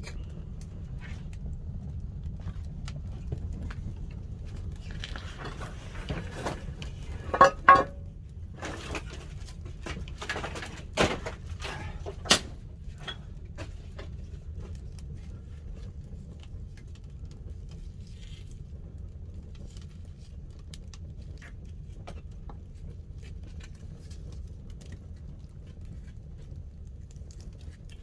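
Pine-wood fire in a wood-fired kiln burning with a steady low rumble and scattered crackles. Several sharp knocks come in the middle: a close pair about seven and a half seconds in, then single ones a few seconds later.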